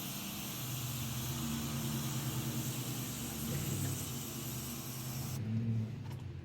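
Sprayer of soapy water hissing steadily onto a motorcycle chain, cutting off suddenly about five seconds in, over a low hum.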